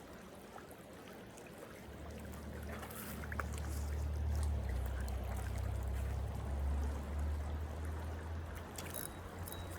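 Creek water running, with a low rumble that builds about two seconds in and fades near the end.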